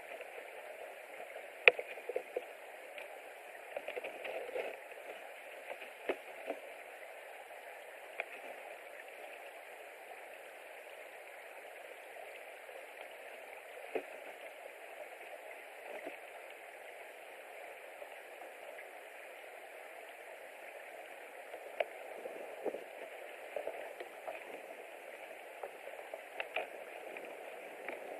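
Steady hiss from an outdoor nest camera's microphone, with scattered irregular clicks and taps, the sharpest about two seconds in.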